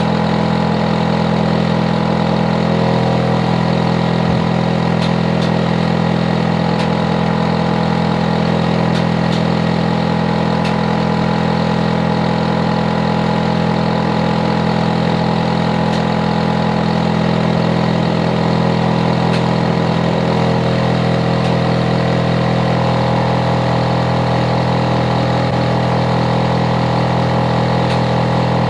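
Hitachi air conditioner outdoor unit running loudly and steadily: a deep compressor hum with a layered whirring drone above it. Its loudness is what makes it a noise problem for the neighbours.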